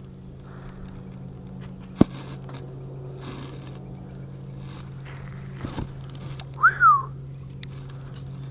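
Steady low hum of a boat motor, with a sharp click about two seconds in, a couple of knocks near six seconds, and a short whistled note that rises then falls around seven seconds.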